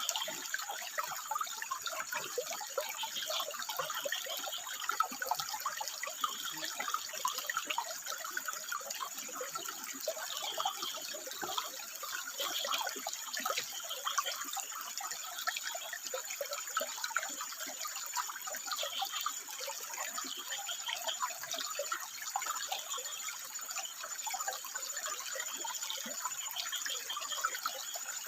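Water running and splashing over rocks, a steady, continuous trickle with no pauses.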